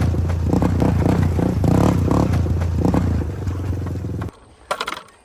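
Three-wheeler engine running under load across rough ground, with clattering and scraping from the machine over it. The sound cuts off suddenly about four seconds in, followed by a couple of sharp knocks.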